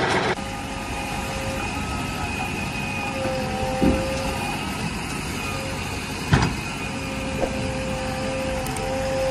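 A small DC motor running with a steady whine, with two knocks about four and six seconds in.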